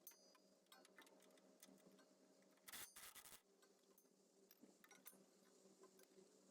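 Faint, uneven clicking of hand tools on the exhaust hardware, about two or three clicks a second, with a short scrape about three seconds in.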